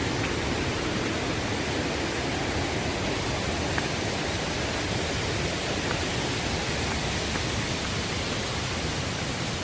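Steady, even rush of falling water from a forest waterfall.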